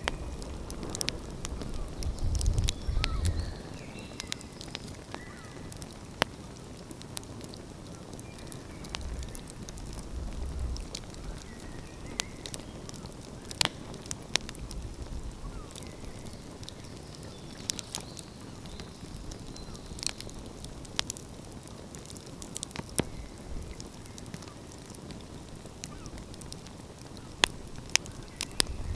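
Open wood fire crackling, with sharp irregular pops over a soft steady hiss. A low rumble swells in the first few seconds and again about ten seconds in.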